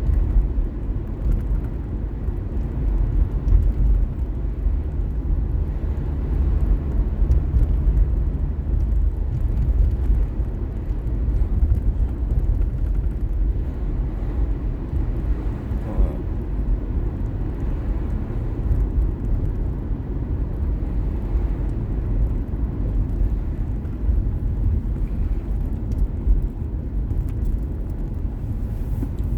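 Car driving along a road: steady low rumble of tyres and engine, heard from inside the car.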